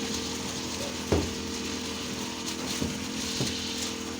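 A machine running steadily, with a few short knocks or clanks, the loudest about a second in.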